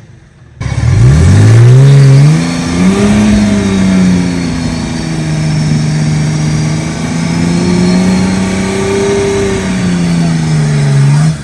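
Loud off-road vehicle engine revving hard. It cuts in about half a second in, climbs quickly in pitch, then holds at high revs with small rises and dips, and falls away briefly right at the end.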